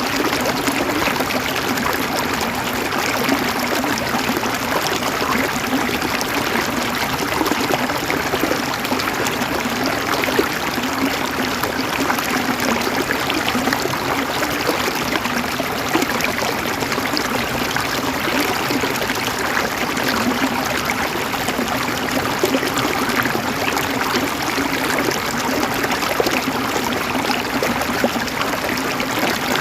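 A river's water flowing and gurgling over rocks, steady throughout.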